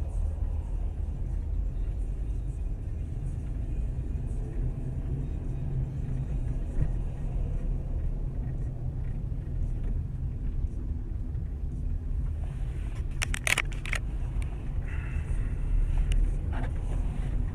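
Steady low rumble of a moving vehicle, with a quick cluster of sharp knocks about thirteen seconds in.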